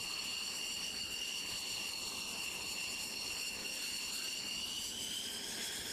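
Jet engine whining steadily: several high-pitched tones held at a constant pitch over a hiss.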